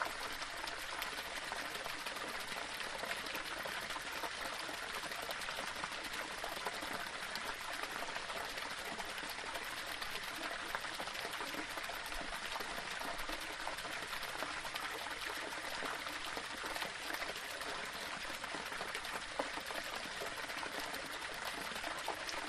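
Small waterfall splashing and trickling over stones in a steady rush, with fine splashing detail throughout.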